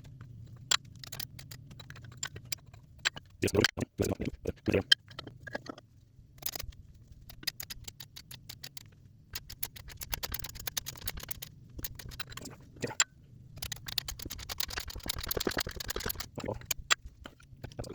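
Steel tools knocking, clicking and scraping on an Eaton M62 supercharger housing as a needle bearing is driven out with a 1/2 inch extension and socket. A cluster of louder knocks comes about four seconds in, and stretches of quick rattling and scraping follow later.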